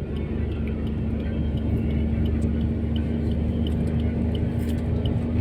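A motor vehicle's engine running steadily with a low rumble and a steady hum, while a faint regular ticking repeats about twice a second.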